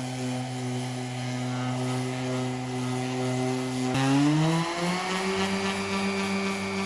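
Bauer 5-inch random orbital palm sander's electric motor running with a steady hum, then rising smoothly to a higher speed about four seconds in, as when the variable speed dial is turned up.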